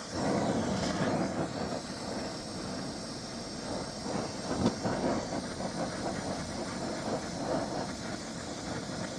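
Gas torch flame running steadily with a hissing roar, heating a rusted nut to free it, with one sharp knock about halfway through.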